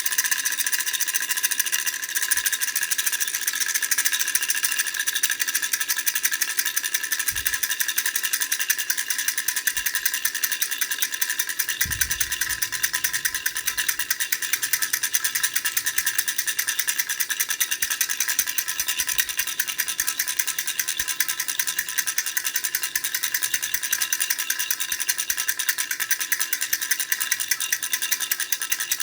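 Teddy-bear baby rattle with four rings shaken without pause: a fast, even clatter with a faint ringing tone running through it.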